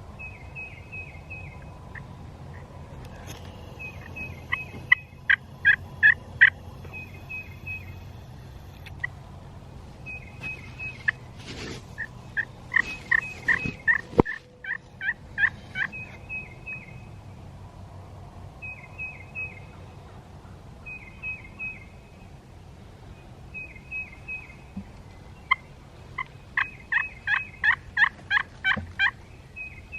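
Wild turkeys calling: runs of loud yelps, about four notes a second, come three times, with quieter runs of short high notes in between. A single sharp knock sounds about halfway through.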